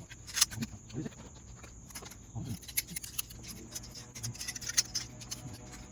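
Scattered light clicks and taps of metal canopy-frame bars and brace hardware being handled, with a sharper click about half a second in and a quick cluster near the end.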